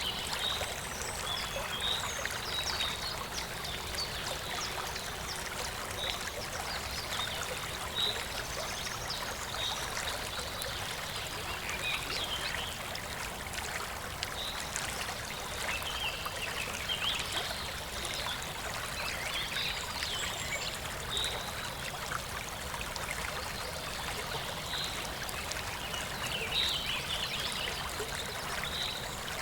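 Water from a waterfall running steadily, with birds chirping and singing over it. Short high chirps recur every few seconds, mixed with busier twittering.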